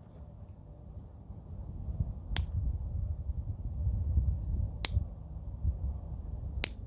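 Three sharp stone clicks about two seconds apart: a homemade bopper striking flint while knapping. A low rumble runs underneath.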